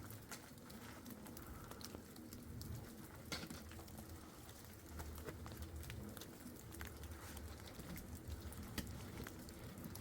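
Light rain, near freezing, pattering close to the microphone: scattered sharp raindrop ticks over a low wind rumble.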